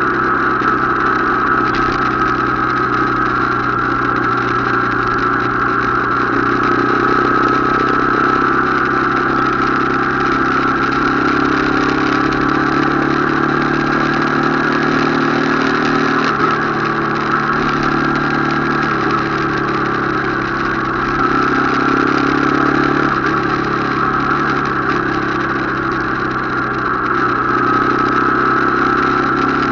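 Motorcycle engine running steadily while riding, an unbroken drone that holds its pitch with small swells.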